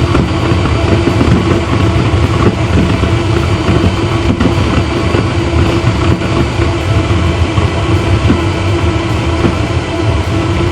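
Homemade waste oil burner running: a steady loud rush with a constant low hum and rumble underneath. The flame is not burning properly, which the builder thinks is because the burner's front pipe is too long.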